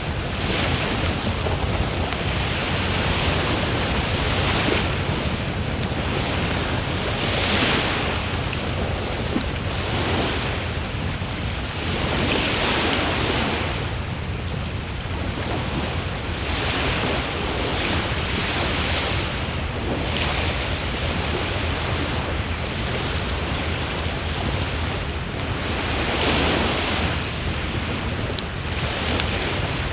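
Wood bonfire burning: a steady rushing of flames with faint scattered crackles, swelling and easing every few seconds. A steady high-pitched whine runs underneath.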